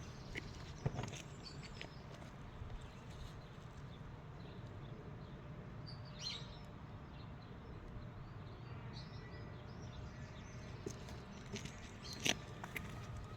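Garden ambience: faint bird chirps now and then over a low steady background, with a few soft sharp clicks, the loudest about a second in and again near the end.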